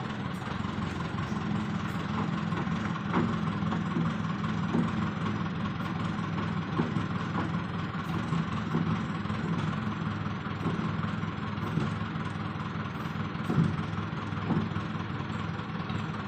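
Backhoe loader's diesel engine running steadily, with a few short knocks over it.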